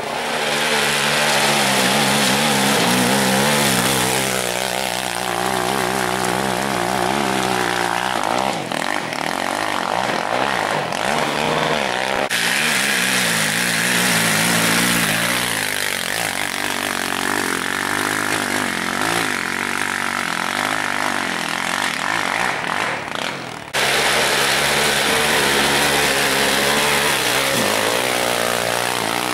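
Small off-road vehicle engines revving hard, their pitch rising and falling as they climb over loose stones. The sound changes abruptly about a third and again about two thirds of the way through.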